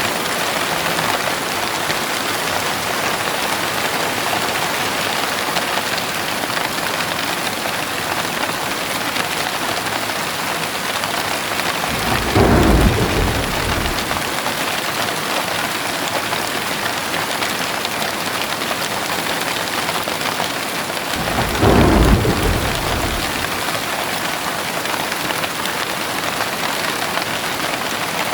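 Heavy rain falling steadily. Short low rumbles of thunder come twice, about ten seconds apart, each lasting a second or two.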